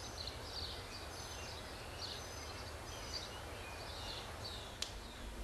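Faint birds chirping, short high calls about twice a second over a low steady background rumble, with one sharp click near the end.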